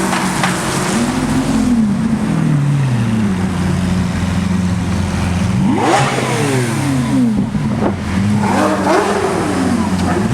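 Supercar engines revving and accelerating over a steady engine drone: a sharp rise in pitch about six seconds in falls away in steps, and another rise and fall comes near nine seconds.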